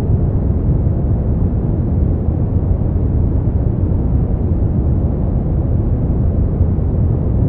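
Steady brown noise: a deep, even rumbling hiss, heaviest in the low end and fading out toward the top, with no changes.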